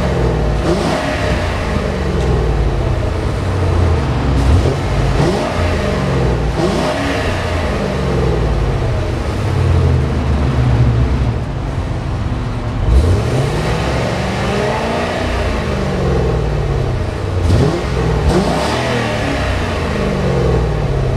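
1995 Lincoln Mark VIII's 4.6-litre DOHC 32-valve V8 being revved over and over, engine speed rising and falling repeatedly between short blips and longer pulls.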